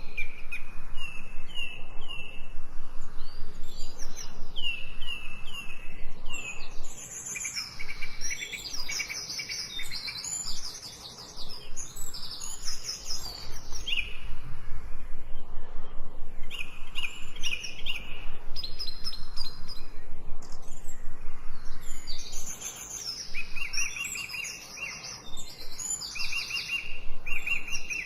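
Several birds singing and chirping, with quick runs of repeated high notes and trills overlapping one another, easing off briefly twice.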